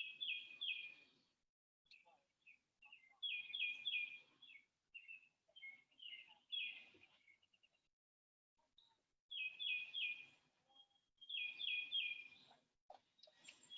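A songbird singing faintly: short phrases of quick, high chirps, mostly three notes at a time, repeated several times with pauses between.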